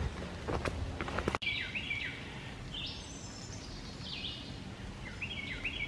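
Footsteps on a wet trail for about the first second and a half, then songbirds singing: clear whistled notes that fall in pitch, repeated in quick series.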